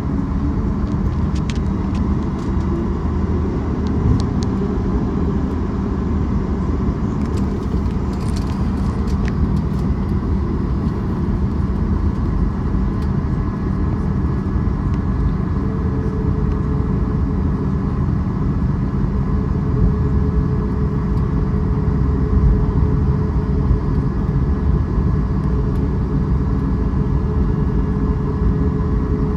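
Steady vehicle rumble with a low engine hum; a steady higher tone joins about halfway through.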